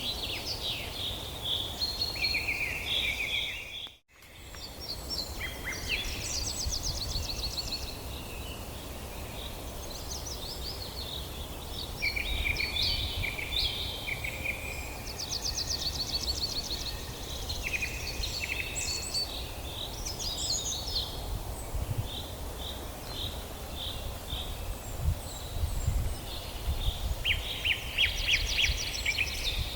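Several songbirds singing at once, overlapping trills and chirps, over a low steady rumble. The sound cuts out briefly about four seconds in.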